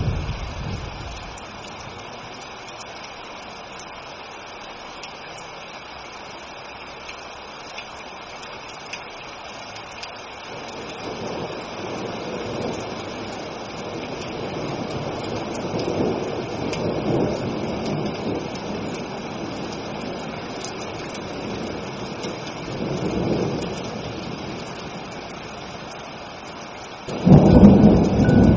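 Steady rain with rolling thunder: a rumble dies away in the first second or two, low rumbles swell and fade through the middle, and a sudden loud thunderclap breaks about 27 seconds in.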